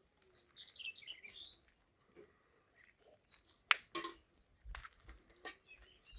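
A small bird chirps a quick run of high, sliding notes in the first second or so. Later come two sharp knocks or cracks a fraction of a second apart, the first the loudest sound here.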